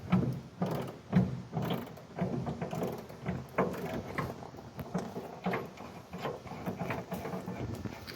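Hand ratchet clicking in repeated strokes, roughly every half second, as it works a truck-bed bolt loose.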